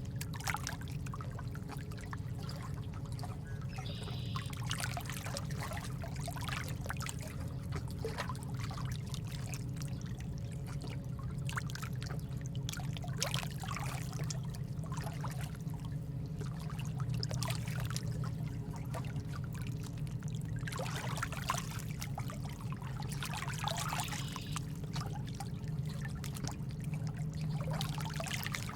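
Nature-sound ambience of running, trickling water that swells and eases unevenly, over a steady low rumble.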